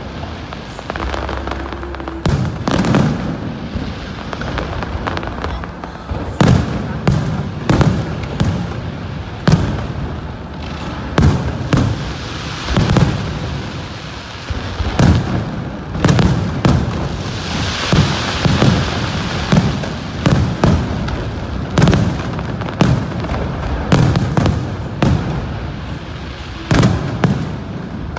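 Fireworks display: aerial shells bursting one after another, roughly a bang or two every second, with a dense crackling shower about two-thirds of the way through.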